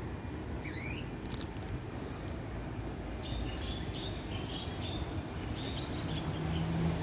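A small bird chirping: a couple of quick sweeping notes about half a second in, then a run of short, high chirps from about three seconds in, over a steady low rumble.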